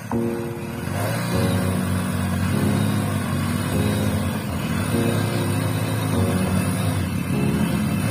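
Two Hero Splendor+ motorcycles' 97cc single-cylinder engines, a 2006 and a 2020 model, running hard in gear under load as the rope-tied bikes pull against each other. A steady engine drone that swells slightly about a second in.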